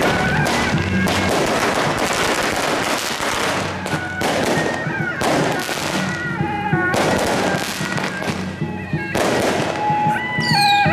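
Strings of firecrackers going off in dense, continuous crackling that eases briefly a few times, over procession music playing a stepped melody.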